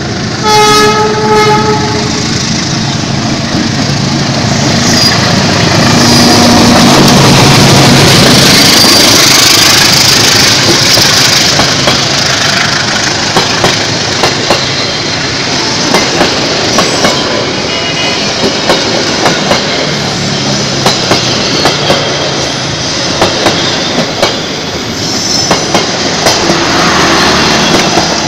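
A diesel-hauled passenger train passes close by at speed. The locomotive's horn sounds once briefly about a second in, then the locomotive goes past loudly for several seconds, followed by the rhythmic clacking of the coaches' wheels over the rail joints.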